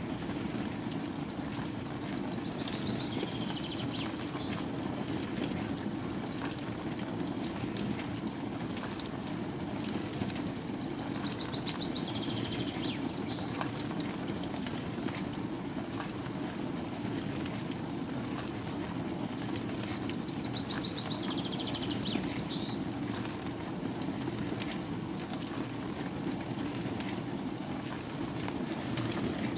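Bosch WAN28220FF washing machine running a synthetics 40 °C wash, with a steady sound of water sloshing in the turning drum.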